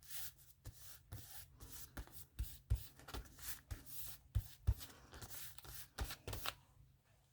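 Paper rustling and being rubbed as collage pieces are handled and pressed down, in a run of quick scraping strokes with a few soft thumps.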